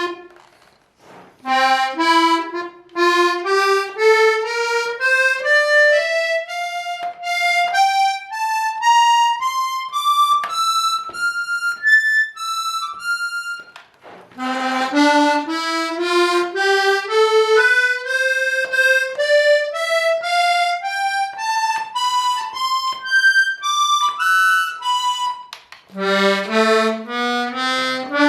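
Hohner Corona II diatonic button accordion played one note at a time in rising runs up the buttons, about two notes a second, with a short pause about halfway through before the next run starts low again. It is a sound test of an instrument not yet tuned, which the owner says could use a few valves and some tuning.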